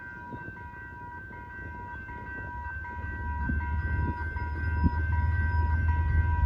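Railroad grade-crossing warning bell ringing with steady repeating tones, while an approaching train's low rumble builds and gets louder about halfway through.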